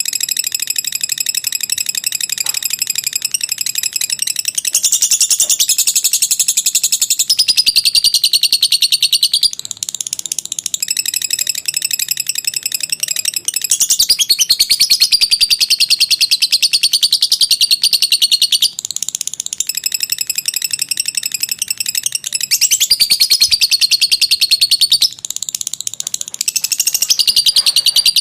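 Lovebird singing its long, unbroken chattering song (ngekek panjang): a fast, high-pitched rattling stream of notes that pauses only briefly a few times.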